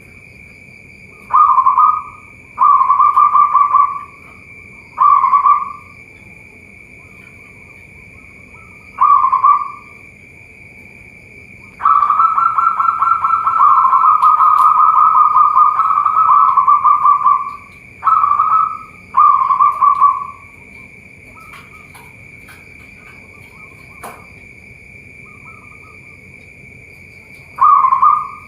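Zebra dove (perkutut) cooing in repeated rapid, rolling phrases, mostly short, with one long run of about five seconds near the middle. A steady high-pitched drone runs underneath.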